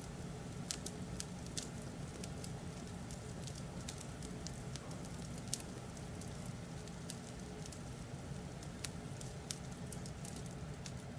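Fireplace crackling: a steady low rumble with irregular sharp pops and snaps scattered through it.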